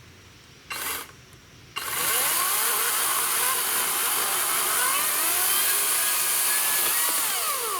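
EGO 56-volt battery chainsaw with an 18-inch bar, cutting through a fallen tree trunk. A short burst comes about a second in. From about two seconds the saw runs steadily through the wood, its motor whine dipping and rising as the chain bites, and it stops at the very end.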